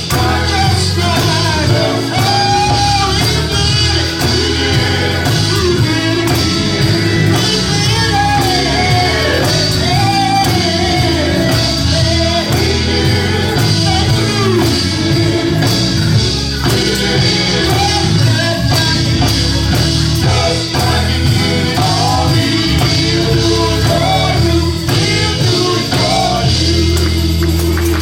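Live praise and worship music: singing over a full band with guitar and bass, echoing in a large hall.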